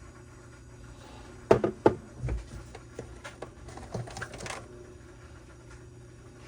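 Hand-handling of tools and small parts on a workbench: two sharp clicks about a second and a half in, a low thump, then a run of light clicks and rattles that stops after about two seconds.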